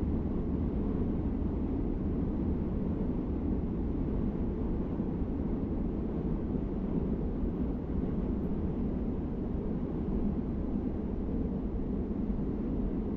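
Steady low rumble of outdoor city ambience, even throughout, with no distinct events standing out.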